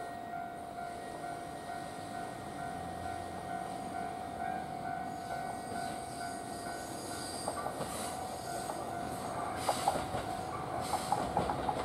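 Level crossing alarm ringing steadily as a diesel railcar approaches; the train's running noise grows louder from about seven seconds in, and wheel clacks over the rail joints start near the end.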